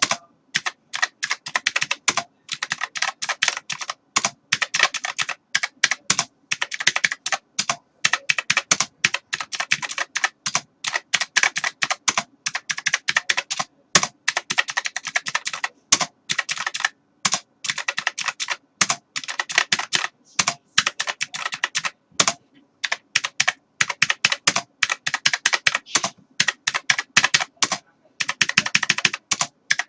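Computer keyboard being typed on: rapid, irregular runs of key clicks broken by short pauses.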